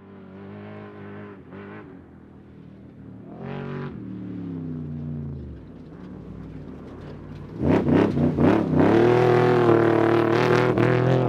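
Trophy truck engine revving in short throttle blips, then growing much louder about seven and a half seconds in. It makes a few quick stabs of throttle and then holds high revs as the truck comes close.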